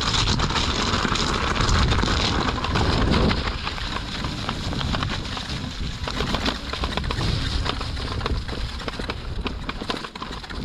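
Wind rushing over the microphone of a rider on an electric unicycle, with many small crackles from the tyre on a rough, wet trail. The rushing drops off sharply about three seconds in, leaving mostly the crackling.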